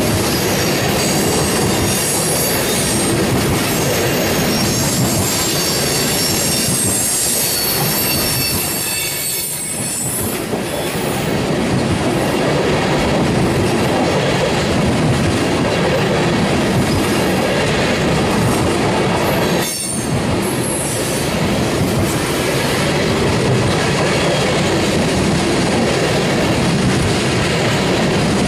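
Oil train's tank cars rolling past, with steady wheel-on-rail rumble and clacking. High-pitched wheel squeal rings out over the first third, then fades.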